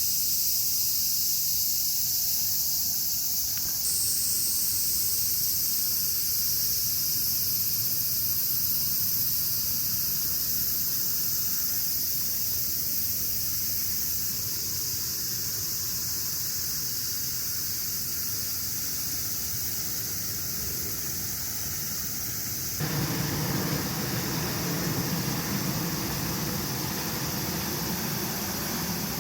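Steady outdoor ambience: a constant high hiss, joined near the end by a lower, fuller rushing noise.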